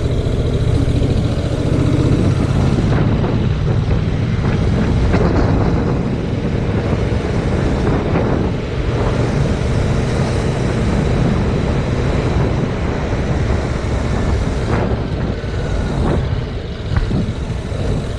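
Heavy wind buffeting on the microphone of a GoPro Hero 5 Black, mounted on a moving 2019 Yamaha MT-07, with the motorcycle's 689 cc parallel-twin engine running underneath.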